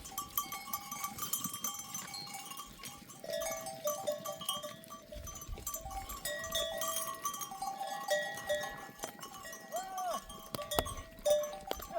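Many bells on a flock of goats and sheep ringing and clinking together as the animals move, with one bleat about ten seconds in.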